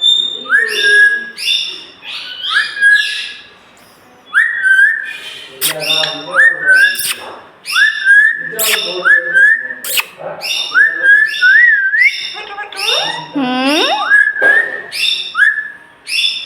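Pet green parrot whistling over and over: short notes that slide up and hold on a high pitch, some ending in a quick wavering trill, with a few sharp clicks in between.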